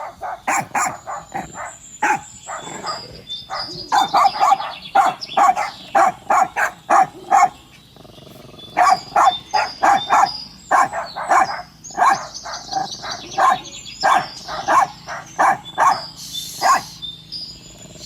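Pet dogs barking at ducks in quick, rhythmic runs of barks, about two or three a second, with short pauses, the longest about eight seconds in.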